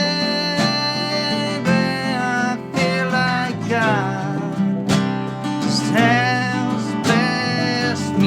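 Live band music: acoustic guitar strummed in a steady rhythm under a sung melody with long held, sliding notes.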